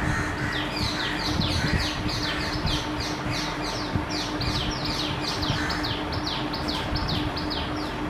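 A bird calling a rapid series of short, high, falling notes, about three a second, starting about half a second in. A steady low hum and scattered low knocks run underneath.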